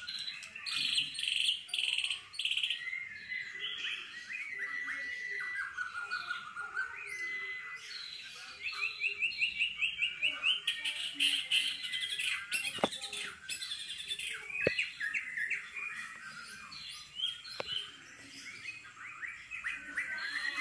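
A songbird singing a long, fast, varied song of sharp chirps, whistles and trills, in the rapid 'tembakan' style prized by Indonesian bird keepers. About halfway through it runs a quick series of rising notes, roughly ten a second.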